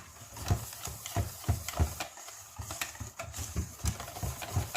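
Stirring puto batter of mix and milk by hand in a bowl: a utensil scraping through the thick batter and knocking against the bowl in a quick, uneven rhythm of about two to three knocks a second.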